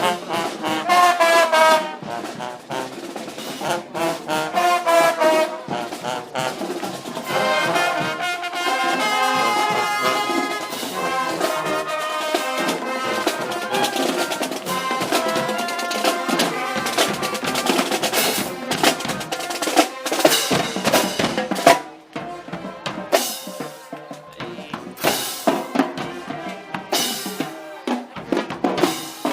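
Brass band music: trumpets and trombones playing held notes, with sharp drum hits over the last several seconds.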